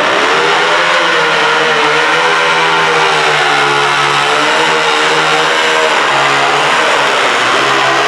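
Modified garden tractor pulling engine running hard at high revs under load, loud and steady, its pitch wavering up and down.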